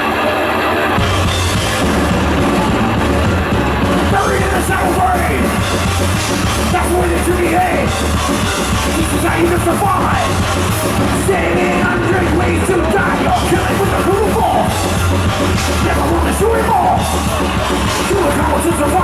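Thrash metal band playing live at full volume: distorted guitars, bass and drums, with shouted, sung vocals over most of it.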